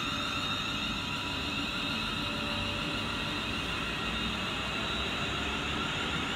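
Steady mechanical whir of a train, with a few faint high tones held over it.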